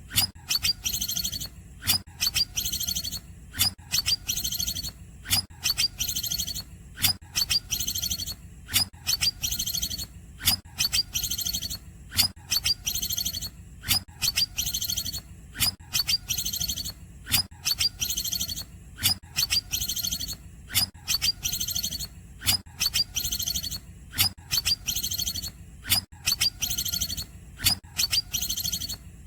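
Cucak ijo (green leafbird) singing its cungkokan song. A sharp note and a high, rapid chattering trill are repeated as one phrase, a little under once a second, in an even unbroken loop.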